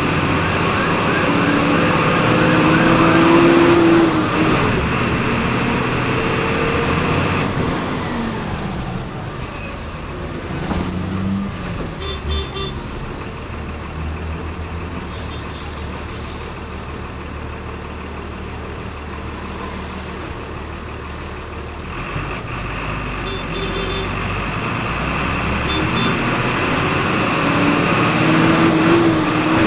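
Volkswagen 17.230 EOD city bus engine heard from on board: it climbs in pitch under acceleration, then drops to a quieter, lower running for about fourteen seconds, with a few light clicks. Near the end it picks up and rises again as the bus pulls away.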